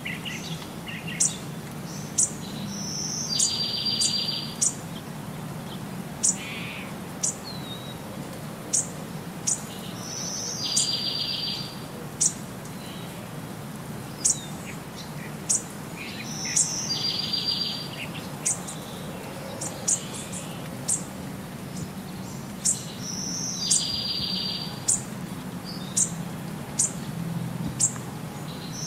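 Songbirds calling: many short, sharp high chirps, with the same buzzy trill coming back about every seven seconds, over a steady low hum.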